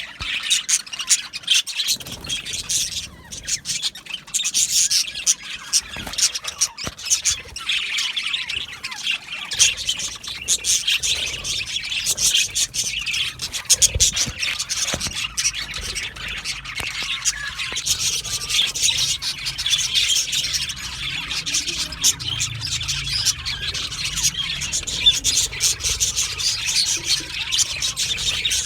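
A flock of budgerigars chattering, warbling and chirping together in a continuous dense mass of rapid high calls with occasional squawks.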